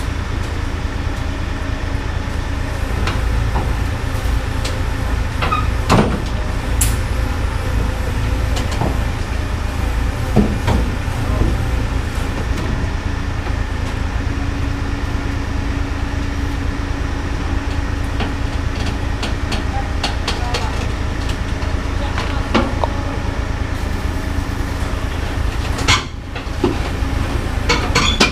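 Heavy diesel engine running steadily, with scattered metallic clanks and knocks.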